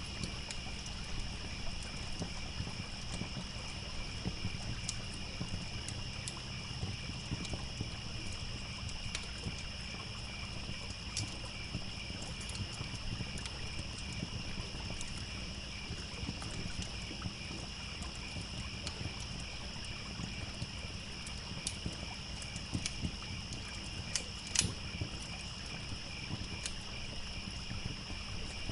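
Crickets chirping steadily over a crackling campfire, whose sharp pops come every few seconds, the loudest late on, with a low trickling stream running underneath.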